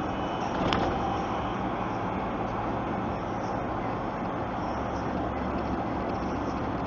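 Steady road and engine noise inside a moving truck's cab, a low rumble with tyre hiss, with a single short sharp knock under a second in.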